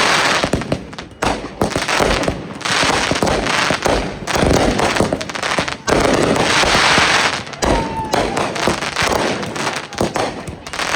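Consumer fireworks going off in quick succession: dense crackling and popping with repeated bangs, and a short whistle about eight seconds in.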